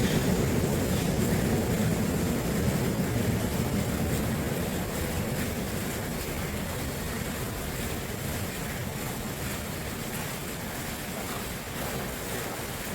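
Steady rush of flowing water, with a low rumble underneath that fades away over the first several seconds.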